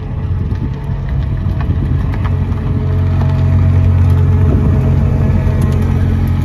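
A car engine running at a steady, even pitch at close range, growing louder over the first three seconds and then holding level, with faint scattered clicks over it.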